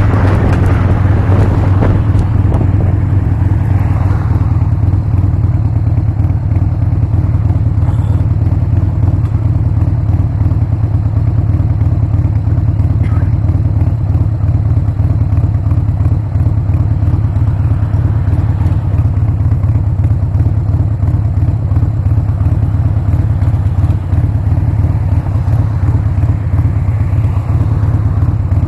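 Harley-Davidson Sportster's air-cooled V-twin running steadily under way, with a strong, even low drone throughout.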